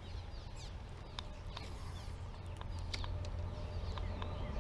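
Small birds chirping in short, quick repeated calls over a steady low rumble, with a few sharp clicks scattered through.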